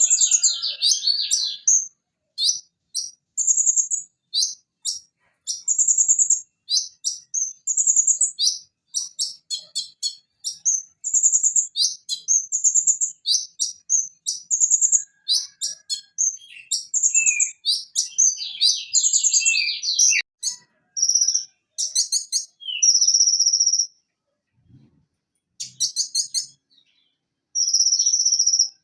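Purple-throated sunbird (konin) singing: rapid runs of short, high, sharp chirps and trills, with a brief lull shortly after the middle and a held high trill of about a second twice in the latter part.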